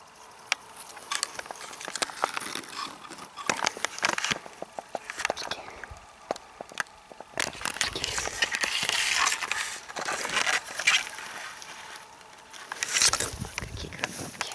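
Rustling and crackling of meadow grass and plant stems being brushed and handled, with many sharp irregular clicks, busiest in the middle.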